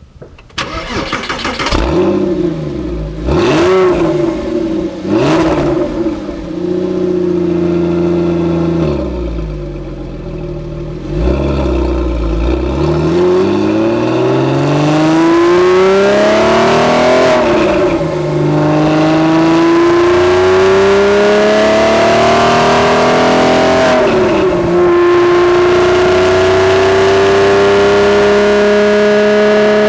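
Porsche 996's flat-six engine through a Fabspeed aftermarket exhaust: three quick rev blips that fall back to idle, then the car pulls away and accelerates, the engine note climbing and dropping at upshifts about 17 and 24 seconds in.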